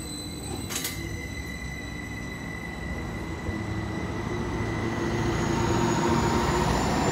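Greater Anglia Stadler Class 755 bi-mode multiple unit, running on its diesel engines on the unelectrified Felixstowe branch, passing over a level crossing. The sound grows steadily louder, with a single sharp knock about a second in and a rising whine over the second half.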